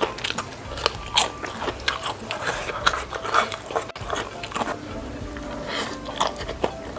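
Close-miked chewing and crunching of spicy noodles and crispy noodle-wrapped fried shrimp (udang rambutan), many small wet crackles and bites. Near the end, a slurp as noodles are sucked into the mouth.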